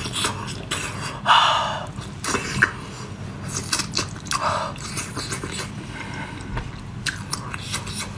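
Close-up chewing of a mouthful of spicy octopus, with many small wet mouth clicks and smacks and two louder smacking bursts, the first about a second and a half in.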